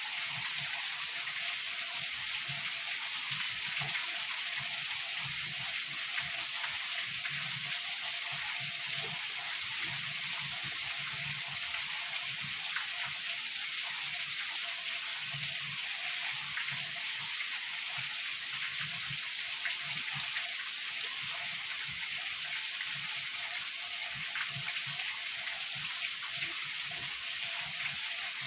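Heavy rain falling steadily: a dense, even hiss with many small, sharp drop impacts ticking through it.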